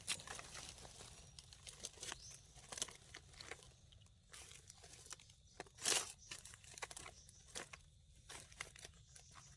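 Dry forest leaf litter rustling and crackling in irregular small crackles, with a louder crackle about six seconds in.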